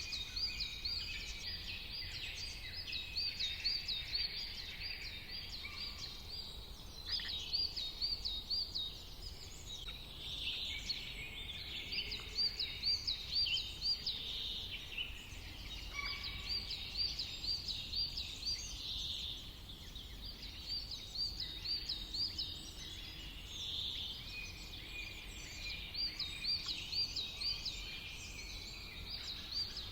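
Songbirds singing in a natural ambience. One bird repeats a quick run of high chirping notes in bouts of a second or two, every four or five seconds, while other birds call more softly in between, over a faint steady low background noise.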